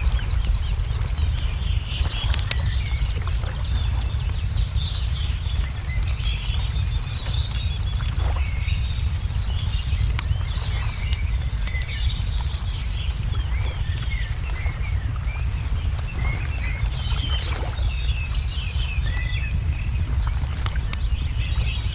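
Layered nature ambience: a wood fire crackling with scattered sharp pops, and birds chirping and twittering throughout, over a steady low rumble of lake water lapping.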